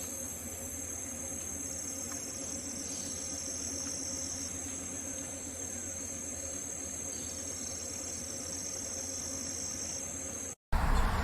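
Insect chorus trilling steadily at a high pitch. It cuts off suddenly near the end, and a louder, noisier sound follows right away.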